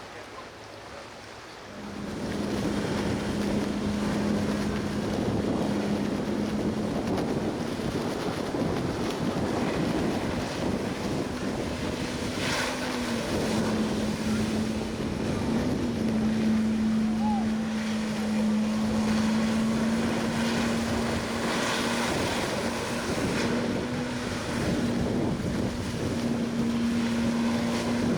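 A boat's engine running at a steady pitch, with wind rushing over the microphone; it comes in about two seconds in.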